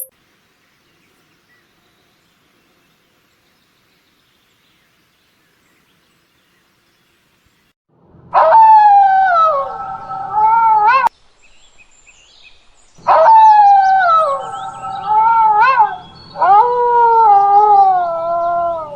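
An animal giving long, wavering howl-like calls: three of them, beginning about eight seconds in, each lasting a couple of seconds with the pitch sliding down and back up.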